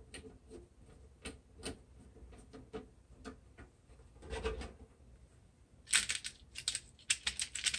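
Light clicks and taps of a screwdriver and metal parts being handled while the birdhouse is put back together, with a duller knock partway through and a quick run of sharp clicks near the end.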